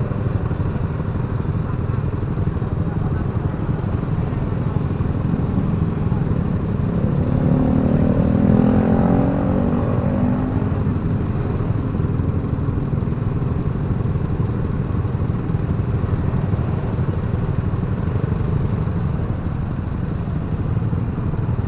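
Motorcycle running on the road, ridden with a steady low rumble of engine and road noise. About seven to ten seconds in, a louder pitched sound swells and fades.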